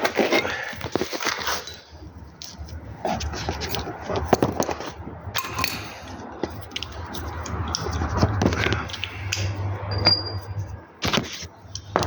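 Metal tools clinking, knocking and scraping in irregular handling noises as a sway-bar bracket bolt is worked on, with a low hum through the middle.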